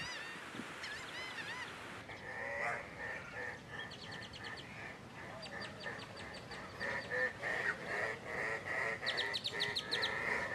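Several birds calling together in a wetland chorus: repeated short arched chirps, then from about two seconds in a busier mix of rapid clicking trills, higher calls and lower honk-like notes.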